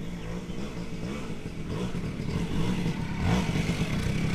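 Motorcycle engine running and revving unevenly, its pitch rising and dipping and the sound growing gradually louder.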